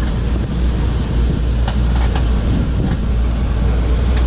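Tour vehicle driving on a bumpy rural road: a steady low engine and road rumble, with a few short rattles or knocks about two and three seconds in.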